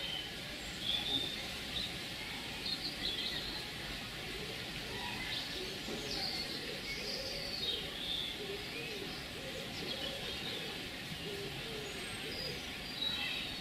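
Small birds chirping and calling on and off, over steady background noise.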